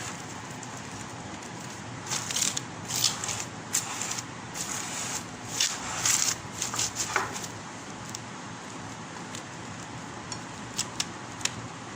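Plastic cling film crinkling and rustling in irregular crackly bursts as it is pulled and wrapped, followed by a few light clicks near the end.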